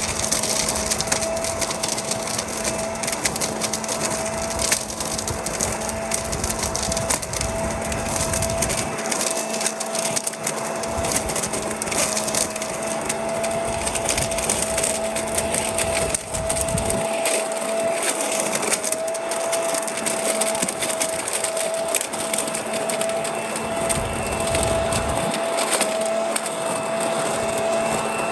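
Corded electric leaf vacuum-mulcher running steadily with a constant whine, crackling as it sucks up and shreds leaves.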